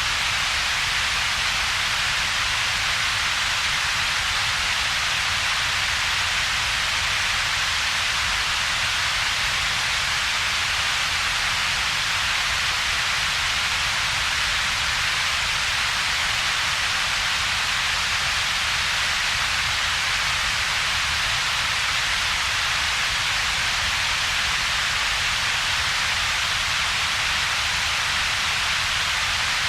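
Synthetic double-peaked coloured noise: a steady, unchanging hiss made of two bands, a strong one centred around a few kilohertz and a weaker low rumble, with a thin gap between them.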